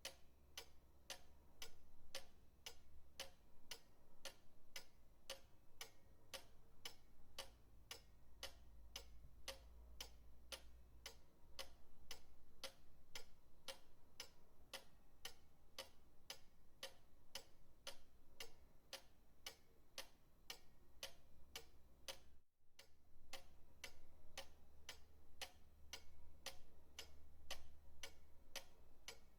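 Pendulum clock ticking steadily and evenly, faint, at roughly one and a half to two ticks a second, over a low rumble.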